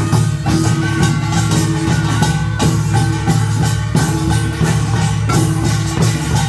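Korean nongak farmers' band percussion playing: small gongs clanging in a fast, dense rhythm over drums, with a steady low ringing underneath.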